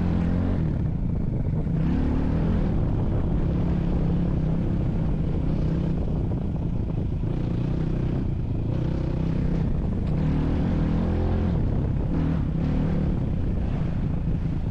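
Motor vehicle engine running steadily under way, its pitch rising and falling several times with the throttle.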